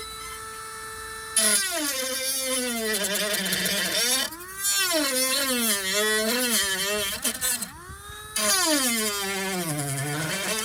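Dremel-type rotary tool with a cutting disc, first spinning freely at a steady high whine, then cutting through the TV bezel in three long passes. Its pitch drops and wavers under load, with a harsh grinding rasp over the top.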